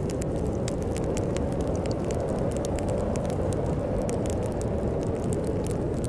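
Fireplace fire crackling, with many quick sharp pops at irregular moments, over a steady low rumble of snowstorm wind.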